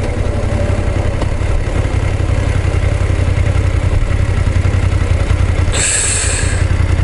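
BMW F850GS parallel-twin engine running under way, with a light 'kara-kara' rattle that the rider likens to tappet noise and hears when accelerating at about 50–60 km/h. A brief hiss comes about six seconds in.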